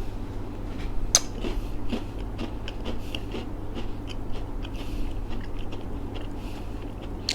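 A person chewing a crunchy chocolate-coated cookie-like wafer snack, with irregular crunches and one sharper crunch about a second in.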